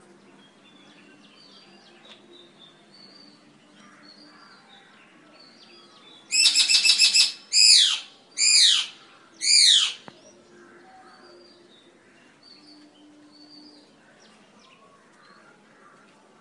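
Eclectus parrot calling loudly about six seconds in: one rapid pulsing screech, then three shorter squawks that sweep up and down in pitch. Faint chirps of small birds sound in the background.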